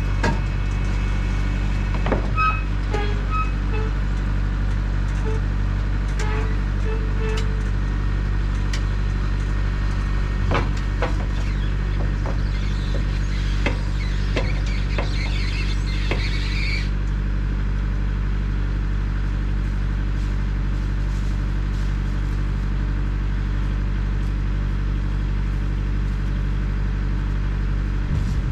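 A motor vehicle's engine running at a steady, unchanging pitch, with scattered clicks and knocks over it and a hiss lasting a few seconds about halfway through.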